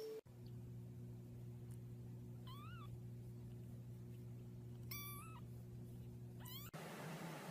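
A cat meowing three times, short calls a couple of seconds apart, over a steady low hum.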